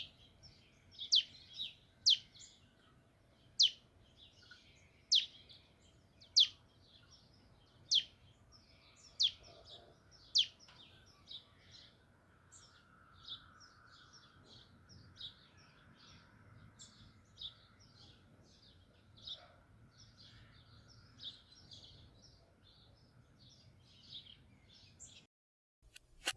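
New Holland honeyeaters calling: sharp, high calls that sweep downward every second or so, loudest in the first half, over a steady chatter of softer high chirps.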